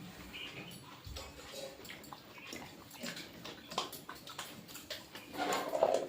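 Close-up eating sounds: soft wet smacking and clicking of the mouth while chewing, made up of many small irregular clicks, with a louder muffled mouth sound near the end.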